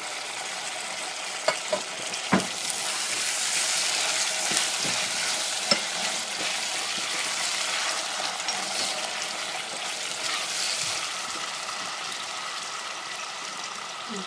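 Olives, red pepper, onion and capers sizzling in a stainless steel saucepan while a wooden spatula stirs them, with a few sharp knocks on the pan in the first six seconds.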